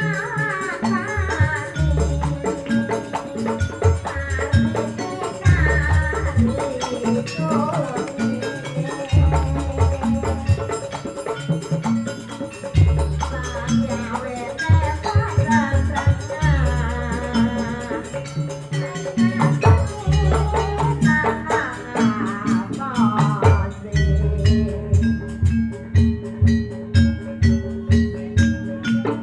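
Traditional Javanese barongan dance music: a percussion ensemble playing a steady rhythm of drums and struck metal and wooden instruments. A wavering melodic line runs over it, and the clicking percussion grows dense near the end.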